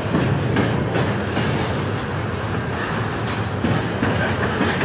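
Metra commuter train running with a steady rumble and a few faint clicks.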